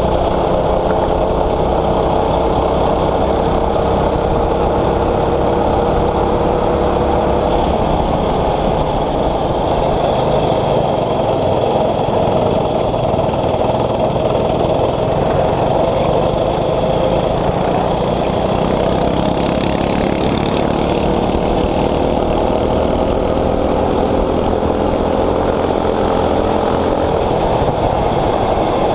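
Single-cylinder 6.5 HP four-stroke kart engine running under load, its note climbing slowly for several seconds at a time and dropping back as the kart slows.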